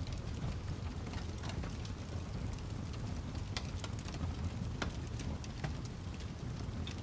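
Wood fire crackling: a steady low rumble with scattered, irregular sharp pops and snaps.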